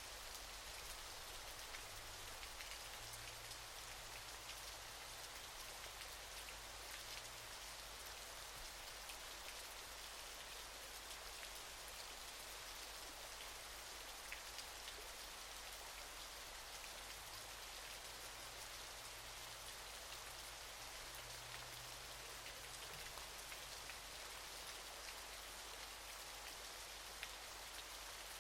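Waterfall: falling water making a steady, even hiss with many fine splashing drops.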